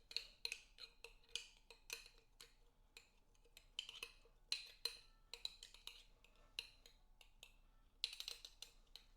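Faint, irregular clicking and clinking of a utensil against a bowl, about two taps a second, as food is mixed by hand.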